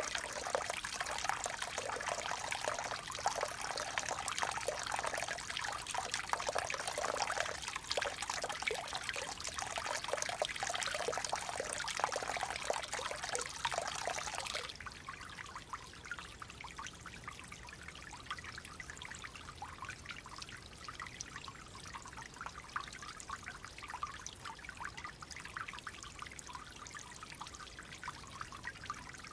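Water flowing and trickling in a small stream. About halfway through it cuts suddenly to a quieter, thinner flow that continues softly.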